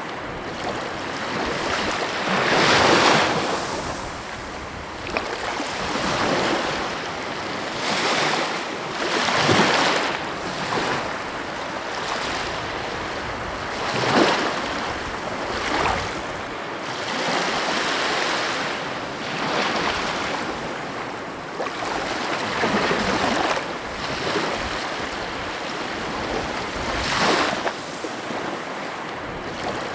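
Sea waves breaking on the shore, one surge after another every couple of seconds, over a steady wash of surf.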